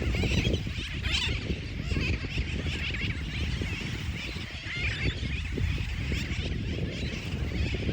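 A colony of sooty terns calling, many overlapping raucous calls at once, with a steady low rumble underneath.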